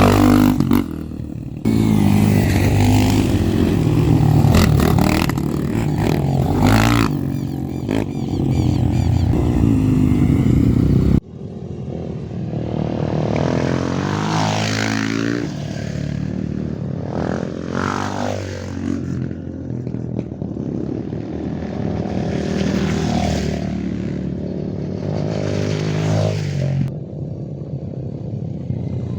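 Off-road trail motorcycle engines running and revving, the pitch rising and falling several times, with an abrupt cut about eleven seconds in.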